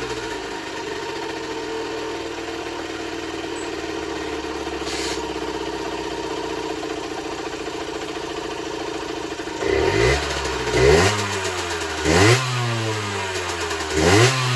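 Generic Trigger SM 50cc two-stroke engine idling steadily, then blipped four times from about ten seconds in, the revs rising sharply and dropping back each time.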